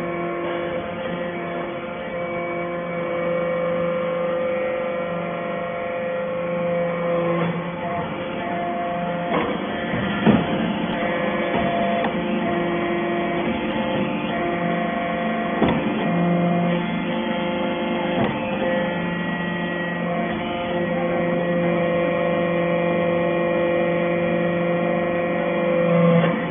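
Hydraulic metal shaving baler running with a steady hum from its pump motor that shifts in pitch now and then, with two sharp clanks about ten and sixteen seconds in.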